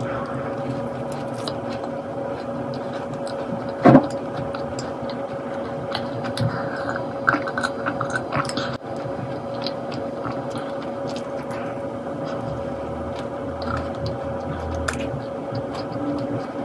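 Close-up chewing of a Lotus biscuit macaron, with small crunches and mouth clicks over a steady hum. A single loud knock comes about four seconds in, and there are swallows of a drink about halfway through.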